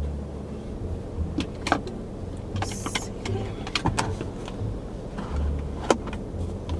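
Inside a car: a steady low rumble, with several sharp clicks and knocks and a brief hiss about three seconds in.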